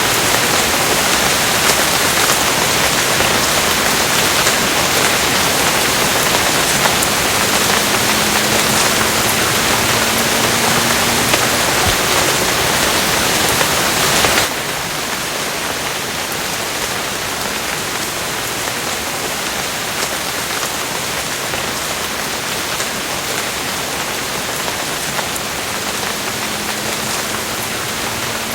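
Steady rain falling, a dense, even hiss of many drops. About halfway through it abruptly becomes a little quieter and duller, as at a splice between two recordings.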